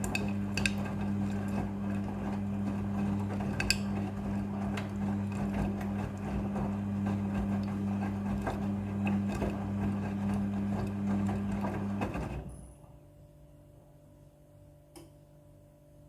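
Front-loading washing machine running with a steady mechanical hum and light rattling and clicks, stopping suddenly about twelve seconds in, after which only a faint hum is left.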